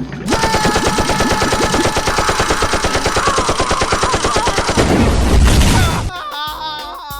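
A rapid, even rattle like machine-gun fire, running for about five seconds and then stopping, followed by a short wavering, warbling effect near the end.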